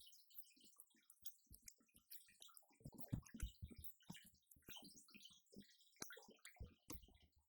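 Electronic drum kit played softly: quick, irregular taps and clicks with no steady beat, a little busier and louder about three seconds in.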